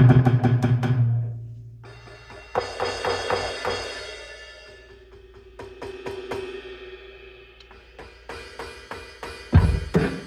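Donner DED 200 electronic drum kit playing drum sounds from its sound module: struck snare and tom voices and a cymbal wash, with a few heavy kick-drum hits near the end.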